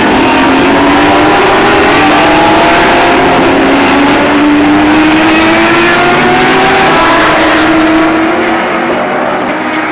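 Several race car engines running at full throttle, their pitch climbing slowly as they accelerate, with a loud steady roar under them; the sound eases a little after about eight seconds.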